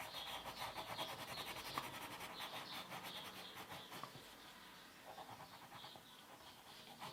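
A crayon rubbing on paper in quick back-and-forth colouring strokes, fading off after about four seconds.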